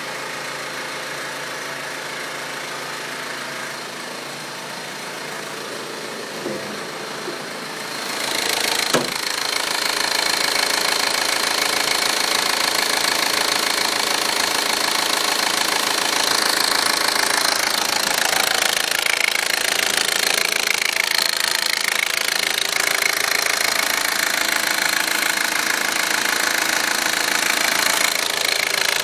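Audi A4 1.8T turbocharged four-cylinder engine idling with a clicking from the engine, after being run with the low oil pressure warning light on. The sound gets louder from about eight seconds in.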